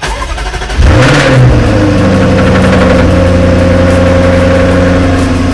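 Jaguar F-Type R's supercharged 5.0-litre V8 starting: a brief crank, then the engine catches about a second in with a loud flare of revs that rises and falls, before settling into a steady idle.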